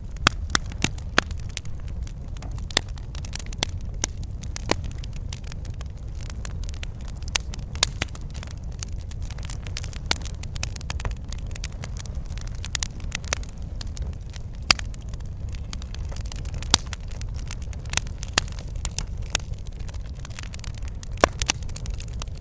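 Wood fire crackling and popping: irregular sharp snaps over a steady low rumble of burning.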